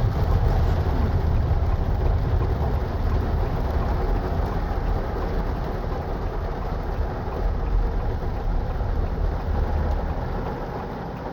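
Steady low rumble of a Haval H6 being driven in rain, heard from inside the cabin: engine and tyres on a wet road, easing slightly near the end.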